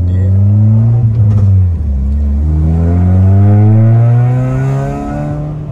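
A 2014 Honda Mobilio's four-cylinder engine, tuned with a Dastek Unichip piggyback ECU, pulling hard at full acceleration, heard inside the cabin. The engine note climbs, drops sharply nearly two seconds in at a shift of the manual gearbox, then climbs steadily again through the next gear and eases near the end.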